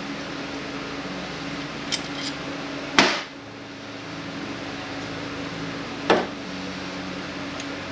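Sharp metal clanks of tools and parts being handled at a transmission workbench: a couple of light ticks, then a loud clank with brief ringing about three seconds in and another about six seconds in, over a steady hum.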